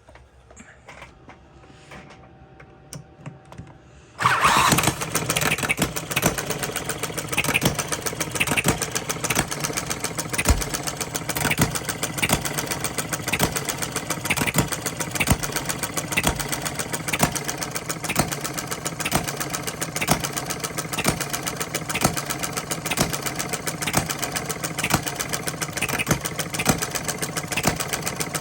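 A small Coles gas engine starting up about four seconds in after a few quiet clicks, then running steadily with an even, repeating beat of firing knocks.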